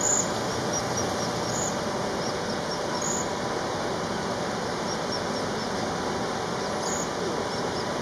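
Small bird giving high, thin chirps in quick runs of four to six notes, with a few louder, higher chirps between them, over a steady background rush.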